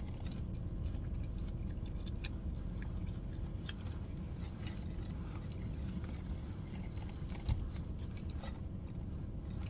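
A person chewing a nut-coated toffee grape with the mouth closed: soft, irregular crunches and small clicks from the nuts and candy coating. A steady low rumble runs underneath.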